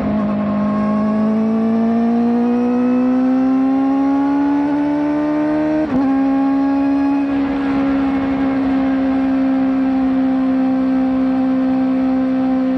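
Kawasaki ZX-4RR's 399 cc inline-four through a slip-on exhaust, rising steadily in pitch under acceleration. There is a quick upshift about six seconds in, after which the engine holds a nearly steady pitch.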